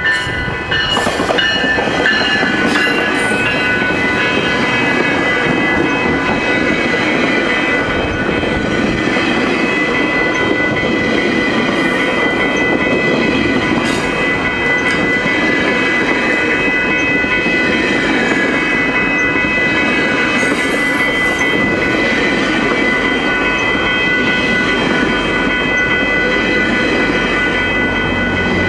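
GO Transit bilevel commuter train passing close by, cab car first: a steady rumble of wheels on rail with clicks over the rail joints, and a steady high-pitched ringing over it. The rumble deepens near the end as the pushing locomotive approaches.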